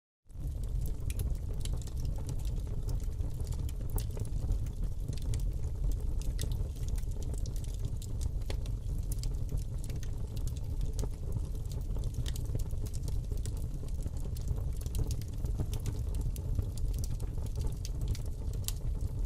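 Wood fire burning in a fireplace, crackling with many small irregular pops over a steady low rumble of flame. The sound drops out for a moment at the very start.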